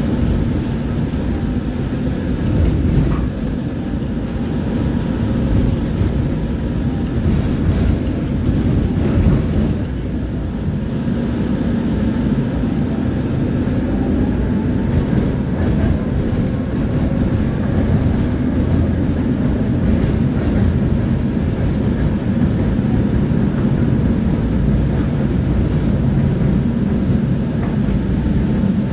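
Tram running along the track: a steady low rumble of wheels on rails, with a faint whine and a few clicks and clacks now and then.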